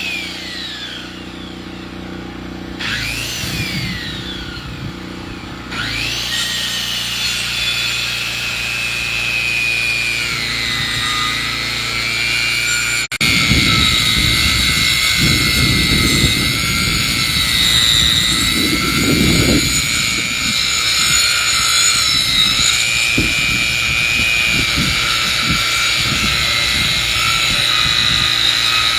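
Engine-driven saw milling a log: the engine speeds up and falls back three times, then runs steadily under load as the blade cuts, with a rough, uneven low rumble joining about halfway through.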